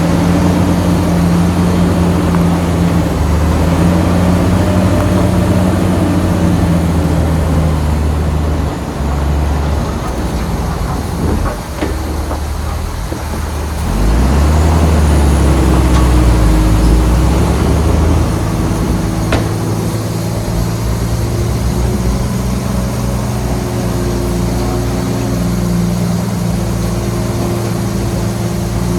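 Heavy diesel engines of earthmoving machinery running under changing load, their pitch shifting as the revs change. A louder, deeper rumble builds about halfway through and eases off a few seconds later, with a couple of sharp metallic ticks.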